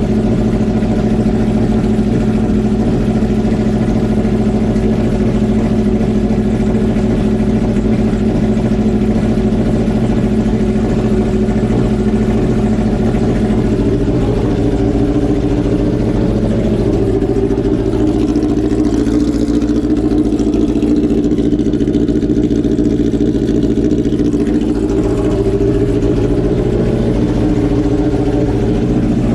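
Kawasaki ZX12R drag bike's inline-four engine idling after a cold start. For several seconds in the middle the idle pitch shifts and wavers, then settles back.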